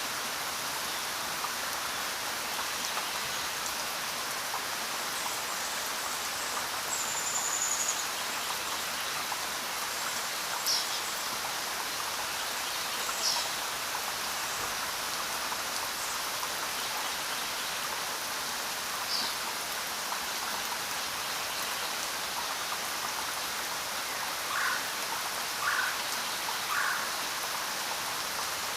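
Steady rain falling, an even hiss. A few brief bird chirps are scattered through it, with three short lower calls close together near the end.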